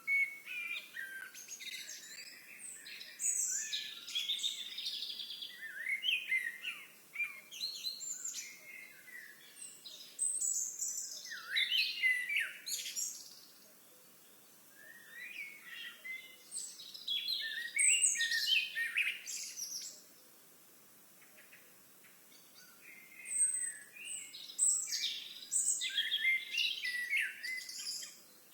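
Songbirds singing: phrases of varied high chirps a few seconds long, repeated with short pauses between them.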